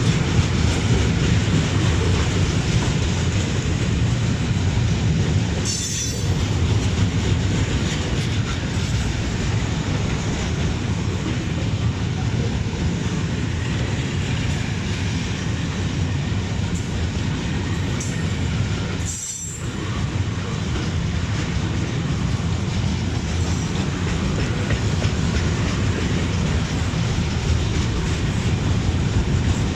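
Container freight train's wagons rolling past on the rails: a steady, loud rumble of steel wheels on track. The sound dips briefly about six seconds in and again near twenty seconds.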